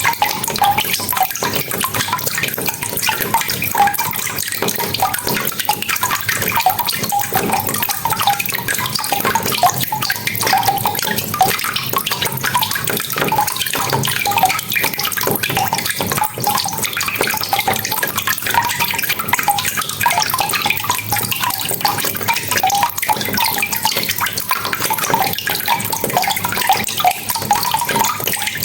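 Rain falling steadily, a dense hiss of drops with many close drips and splashes.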